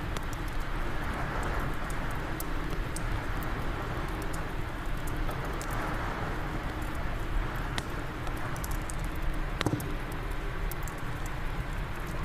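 Wood fire crackling in a fireplace, with scattered sharp pops and one louder crack about three quarters of the way in, over a steady blowing wind.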